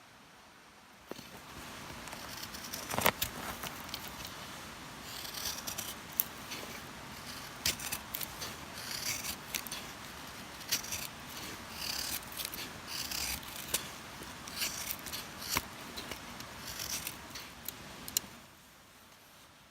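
Close handling noise: rustling with many scattered sharp clicks and small knocks, starting about a second in and stopping abruptly near the end.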